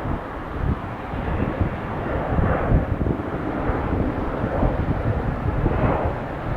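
Airbus A321-200 jet airliner taking off and climbing out, its engines at takeoff power making a steady rumbling jet noise with slow swells.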